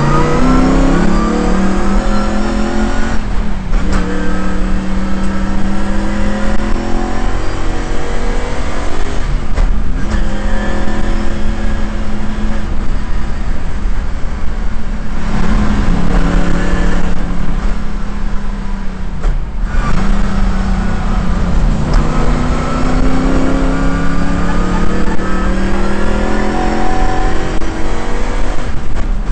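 Shelby GT350's V8 engine at racing speed, heard from inside the car: its pitch climbs hard under acceleration and drops or breaks off briefly about four times at gear changes and lifts.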